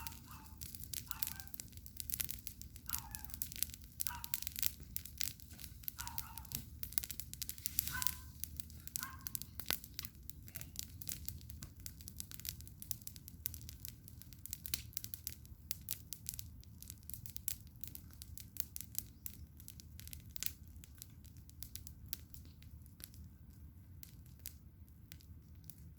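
Garden bonfire crackling with many sharp pops, busier in the first half and thinning out later, over a low steady rumble. A few short falling calls sound faintly in the first ten seconds.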